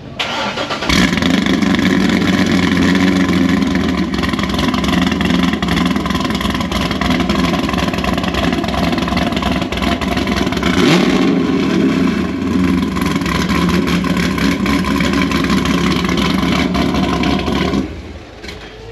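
Car engine with a loud exhaust starting abruptly about a second in and running loudly for about seventeen seconds, with a brief rise in pitch about ten seconds in, then dropping away near the end.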